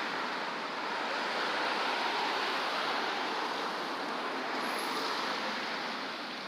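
A steady rush of strong wind through city streets, with traffic noise mixed in.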